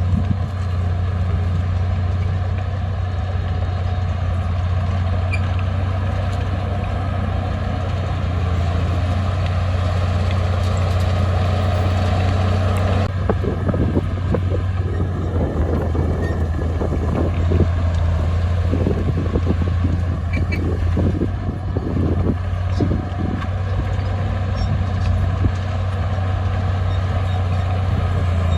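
Komatsu D20P bulldozer's diesel engine running steadily under load. From about 13 to 23 seconds in there is a run of clanks and knocks, typical of the tracks and blade working the soil.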